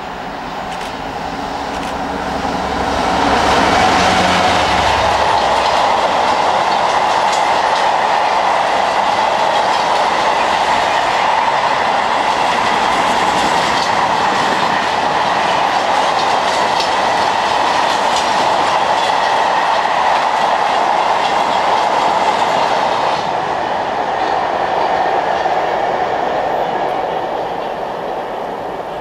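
A diesel-hauled freight train passes close by. The locomotive's engine rises and goes by about four seconds in. A long rake of covered wagons follows with steady wheel and rail noise and rhythmic clicking of the wheels, then dies away near the end as the last wagons pass.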